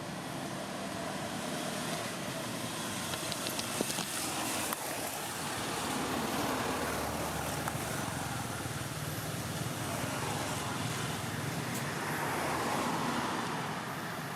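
Outdoor road-traffic noise, a steady rush that swells twice as vehicles pass, with a few faint clicks.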